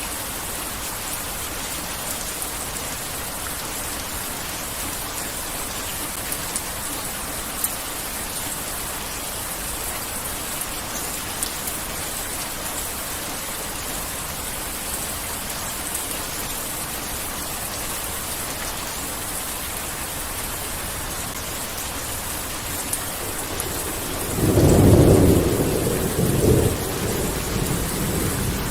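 Heavy rain falling steadily, with a few faint drop clicks. About 24 seconds in a clap of thunder rumbles in low and loud, swells again about two seconds later, and then rolls away slowly under the rain.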